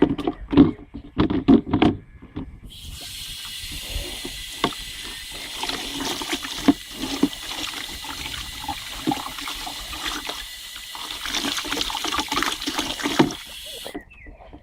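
A few sharp knocks and clatters, then a tap turned on and water running steadily into a sink with scattered knocks, cutting off suddenly near the end.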